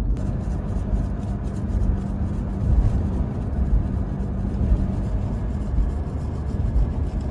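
Road noise inside a moving car's cabin: a steady low rumble of tyres and engine at highway speed, with a steady hum that fades out about six seconds in.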